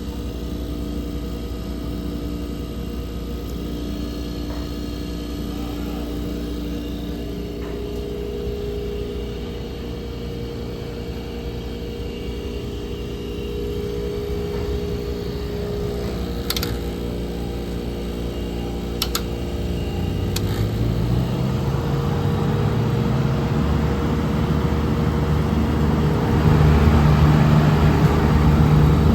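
Refrigeration compressor running with a steady electric hum, then a motor starting up about twenty seconds in, its pitch rising and the sound growing louder. A few sharp clicks come just before it starts.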